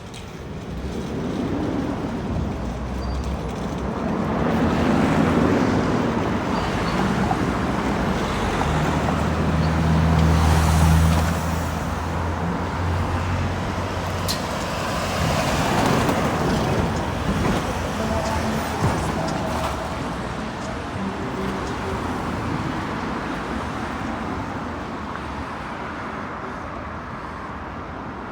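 Road traffic passing. A heavy vehicle's engine is the loudest sound, peaking about ten seconds in with a deep engine hum. Another vehicle passes around sixteen seconds, and the noise then tails off.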